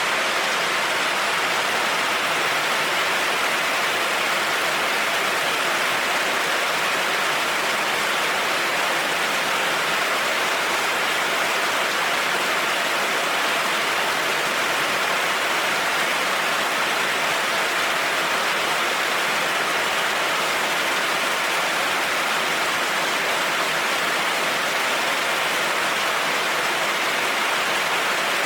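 Heavy rain falling steadily on a road, an even hiss with no breaks or thunderclaps.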